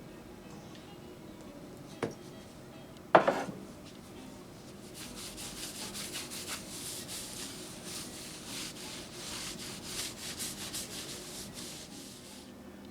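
Oil being rubbed into the wooden boards of a small flat car in quick, repeated strokes, starting about five seconds in and stopping near the end. Before that, a faint click and then a sharp knock with a short ring.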